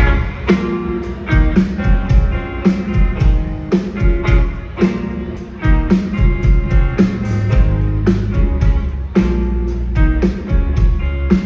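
Live band playing the instrumental opening of a song: strummed guitar over bass with a steady beat.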